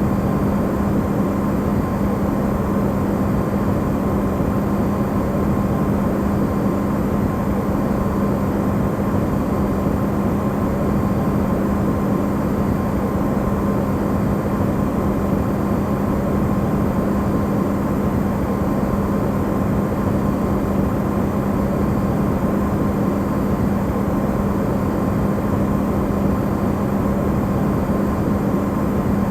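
Electrolux refrigerator running, recorded amplified: a steady, unchanging hum with a strong low tone and a faint higher whine over an even rushing noise.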